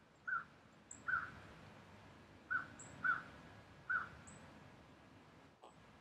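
Birds calling: one bird gives a short call five times at uneven intervals, and another gives three faint, very high chirps in between.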